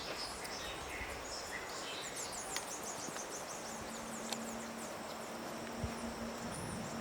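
Small birds chirping and twittering, with a quick run of about a dozen high, falling chirps two to three seconds in. A steady low hum joins about halfway through.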